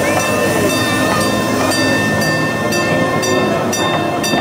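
Amusement-park train rolling past close by, its wheels clicking over the rail joints about twice a second.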